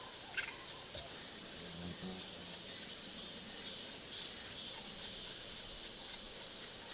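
Insects chirping in a steady, evenly pulsing rhythm, with one sharp click about half a second in.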